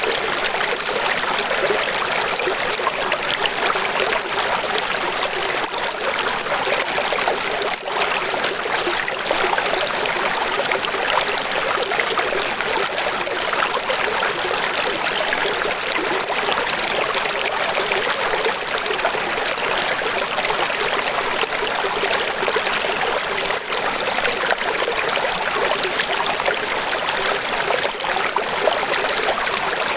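Running water, a steady splashing rush with almost no low rumble, briefly dipping about eight seconds in.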